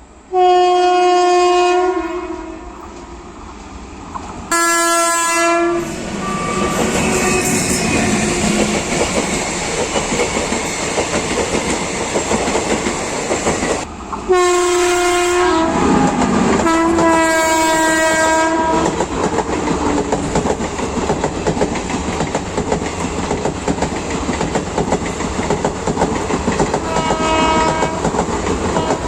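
Indian Railways train horn sounding in repeated long blasts as the train comes through at speed, the later blasts lower in pitch as it passes. Between them is the steady rumble and clickety-clack of the coaches running over the track, with a short last blast near the end.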